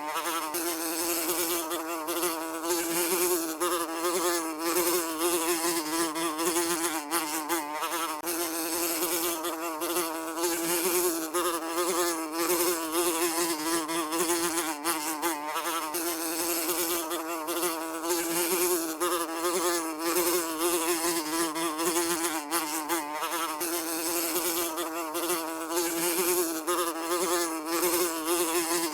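A housefly buzzing continuously, a steady wing-beat drone around 300 Hz whose pitch wavers slightly as it flies about.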